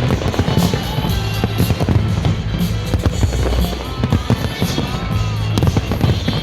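Fireworks going off in many quick bangs and crackles over loud music with a heavy bass line.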